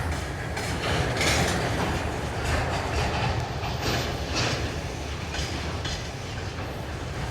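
Freight train rolling past at low speed, its wheels clattering irregularly over rail joints above a steady low rumble.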